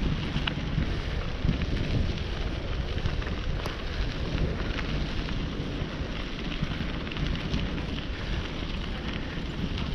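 Wind rumbling over the microphone while riding a bicycle, with a steady crackle over it and a few sharp ticks.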